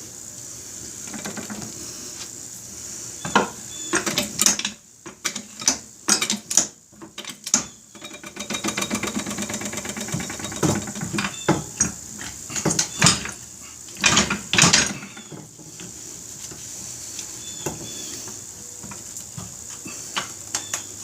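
Irregular metal clanks, knocks and scrapes as a motorcycle engine is shifted and slid out of its frame by hand, over a steady hiss.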